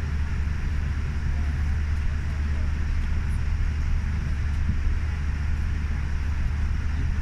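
Steady low rumble of cabin noise inside a Boeing 787 Dreamliner, the aircraft's engines and airflow heard through the cabin at an even level.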